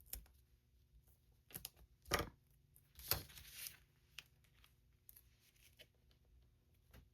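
Faint, scattered handling sounds of paper card pieces and craft tools on a tabletop: a few light taps and knocks, the sharpest about two seconds in, and a brief papery rustle about three seconds in.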